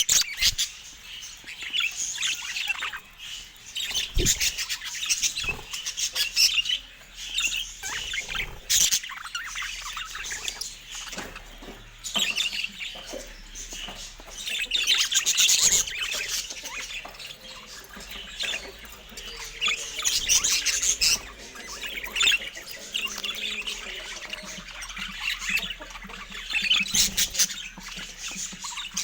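Budgerigars chirping and warbling in quick, busy chatter, with a few short knocks mixed in.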